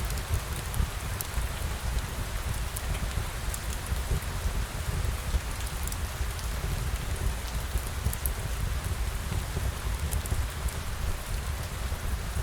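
Steady rain falling, an even hiss over a low rumble, with scattered faint high ticks of drops.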